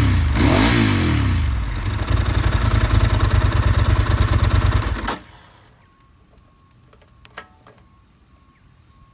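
Ducati 996 superbike's L-twin engine blipped once, then running with a fast, rhythmic lope before it cuts off suddenly about five seconds in: the engine is switched off. A single short click follows in the quiet about two seconds later.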